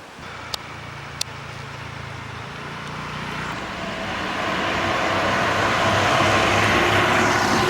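A motor vehicle's engine approaching, growing steadily louder.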